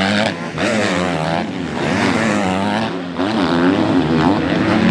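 Several motocross bikes' engines revving up and down together, their pitches rising and falling through gear changes and throttle bursts.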